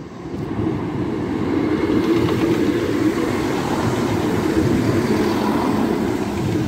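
Class 170 Turbostar diesel multiple unit passing at close range over a level crossing: its underfloor diesel engines running and its wheels on the rails. The noise builds about half a second in and then stays steady.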